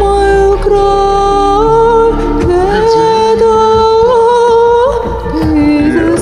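Wordless sung vocalise: long held notes that glide from pitch to pitch, hummed or sung on a vowel over a pop backing track.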